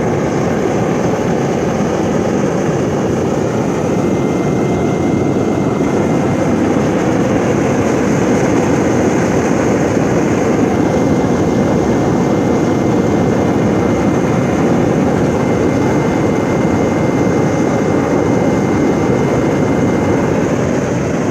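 Homemade waste-cooking-oil burner firing in a ground forge, its electric blower forcing air through the atomizer: a steady, distinct roar, with a faint high steady tone held through most of it.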